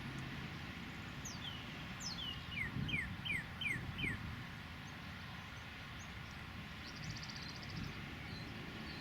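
A songbird sings a series of about seven whistled notes, each sliding downward in pitch, and a short buzzy trill follows later. Under it is the steady hum of distant highway traffic.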